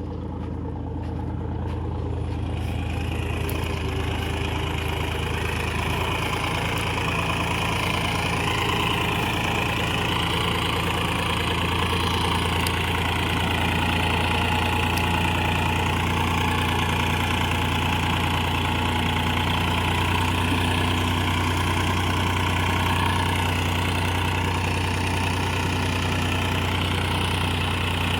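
Massey Ferguson 7250 DI tractor's diesel engine working under heavy load as it pulls about 80 quintals through sandy ground. The engine sound swells over the first few seconds, then holds steady.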